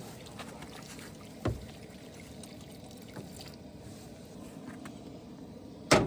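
Water poured and trickling over potatoes to rinse them off, a steady splashing. There is a short knock about a second and a half in and a louder sharp knock near the end.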